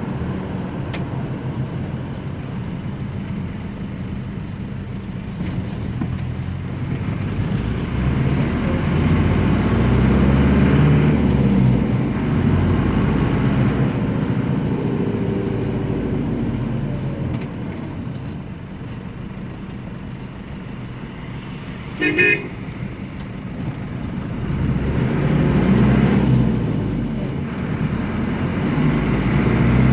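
Air-cooled Deutz F4L912 four-cylinder diesel of an Otokar M-2000 minibus running on the road, its pitch rising and falling as it pulls away and eases off several times. A short horn toot sounds about two-thirds of the way through.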